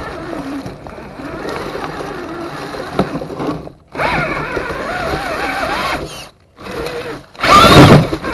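Axial SCX10 II RC crawler's electric motor and drivetrain gears whining, the pitch rising and falling with the throttle and cutting out twice as the truck stops and starts. A loud rough burst near the end.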